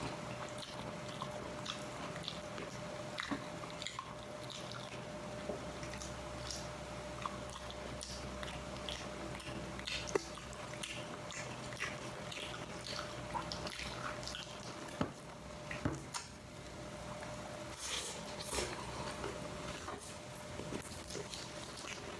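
A person chewing food close to the microphone, with scattered small wet mouth clicks and smacks over a faint steady hum.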